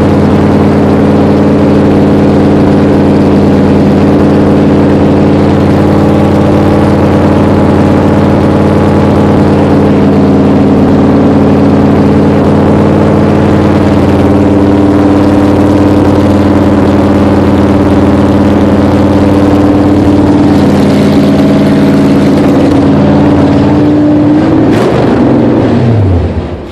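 A 1966 Plymouth Valiant V100's rebuilt engine running loud and steady during its break-in run. Near the end the pitch slides down and the engine winds down to a stop.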